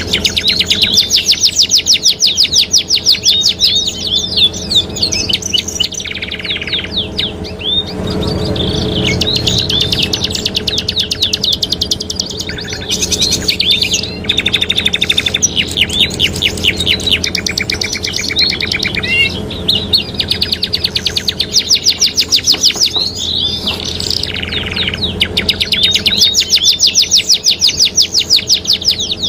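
Domestic canaries singing in vigorous, fast rolling trills. Each phrase is a rapid run of repeated notes, and a new phrase starts every few seconds.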